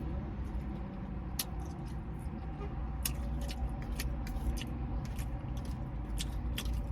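Spaghetti being eaten: scattered small clicks and smacks of chewing and a fork, over a low steady rumble in the car.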